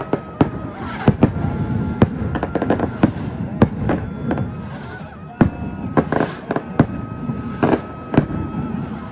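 Firecrackers going off in an irregular string of sharp bangs, several a second, over a background of crowd voices and faint music.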